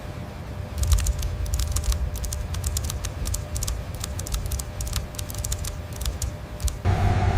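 Rapid, irregular clicking over a low rumble, starting about a second in. Near the end the clicking stops and a steady hum takes over.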